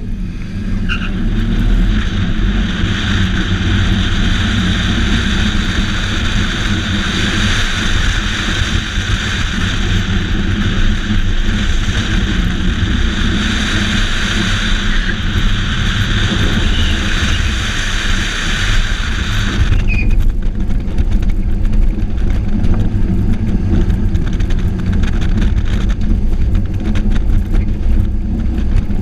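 Car engine driven hard through an autocross run, loud throughout after climbing in the first couple of seconds. A steady hiss rides over the engine and cuts off suddenly about twenty seconds in.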